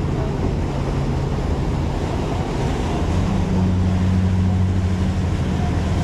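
Motorboat engine running steadily under a rush of wind and water; about halfway through, the engine note steps up and grows stronger.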